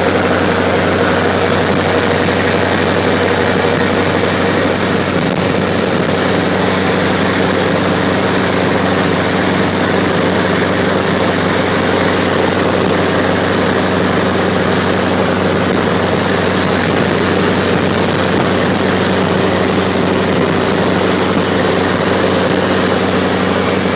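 Steady engine drone and road noise of a vehicle running at an even speed, a low hum held at one pitch under a broad rushing noise.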